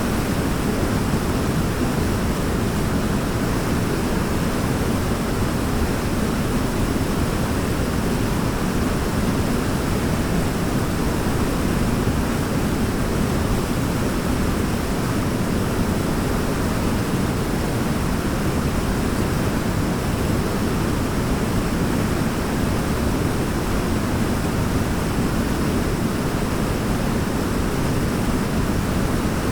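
Waterfall: a steady, unbroken rush of falling water, deep and full in tone.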